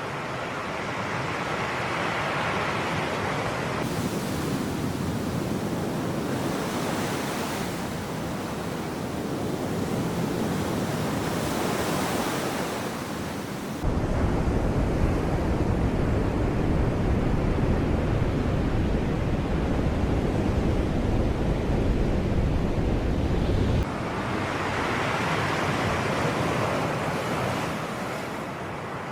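Sea waves washing onto a shore, the noise swelling and ebbing every few seconds, with wind on the microphone. About halfway through, a louder, deeper rumble cuts in abruptly and stops just as suddenly some ten seconds later.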